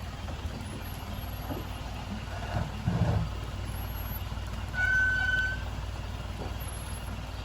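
Truck engine running with a steady low rumble, swelling briefly about three seconds in, and a single short high-pitched beep about five seconds in.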